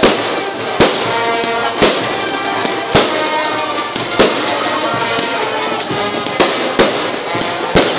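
Fireworks going off in a string of sharp bangs, about eight of them at roughly one-second intervals, over continuous music.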